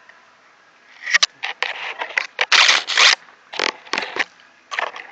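Brush rustling and scraping close to the microphone, in irregular bursts starting about a second in.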